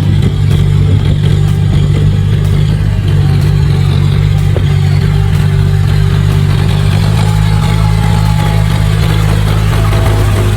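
John Deere 5055E tractor's diesel engine running steadily under load, a loud even drone with light clatter above it.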